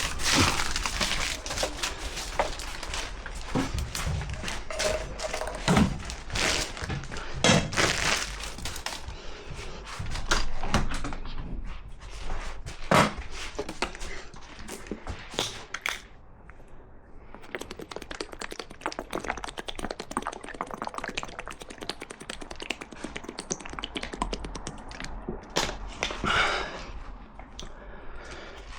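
Irregular knocks, taps and clatter of hand work with tools and parts, with a few louder sharp knocks. Partway through comes a run of fast, fine clicking and rattling.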